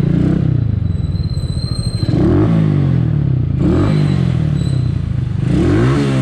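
Skygo Earl 150 motorcycle's single-cylinder CG150 four-stroke engine with an open exhaust pipe, running and revving up three times, its pitch rising and falling each time.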